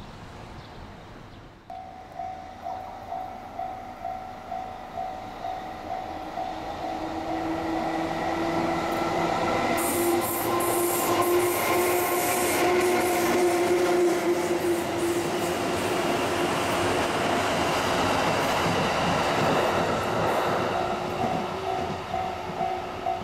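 Japanese level-crossing warning bell ringing in a steady pulsing two-note pattern, about two strokes a second. Then an electric locomotive hauling a rake of 209 series EMU cars passes close by, its motor whine and wheels on the rails growing loud and fading. The crossing bell is heard again as the train goes away.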